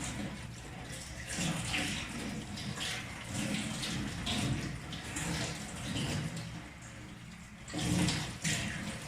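Tap water running and splashing as vegetables are rinsed under it by hand, the stream's sound surging and changing irregularly as they are moved about in it.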